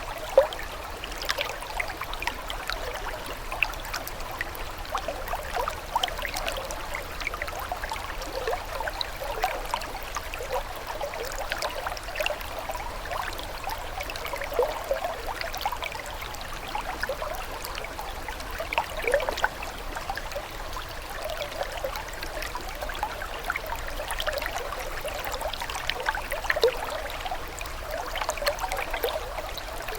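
Water trickling steadily, like a small stream, with a constant patter of small irregular gurgles. There is one sharper, louder plink just under half a second in.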